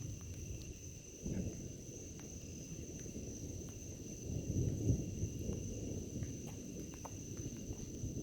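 Thunder rumbling low and uneven, swelling about a second in and again around the middle, over a steady high-pitched chirring of insects.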